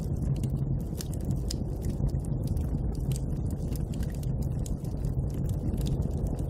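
Steady low snowstorm wind, with the irregular crackling and popping of a wood bonfire on top of it.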